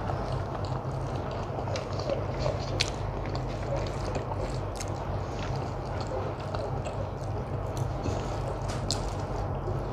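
A person chewing soft rice and curry close to the microphone, with wet mouth sounds and many small scattered clicks and smacks, over a steady low hum.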